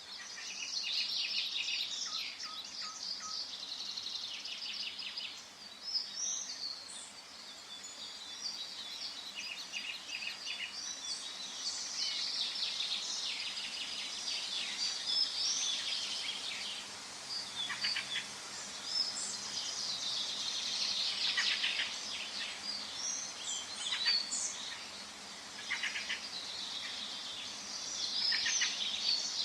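Forest birdsong: several birds singing and chirping at once, with overlapping trills and quick high calls, over a faint steady background hiss.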